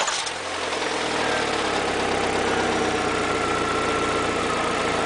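Engine settling from a start into a steady idle. It is played as an example of engine knock (detonation), the metallic pinging of abnormal combustion.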